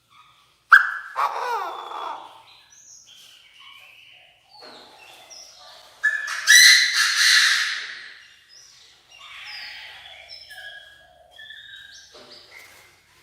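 Chinese francolin calling loudly: a harsh call about a second in and another about six seconds in, with quieter short notes between and after.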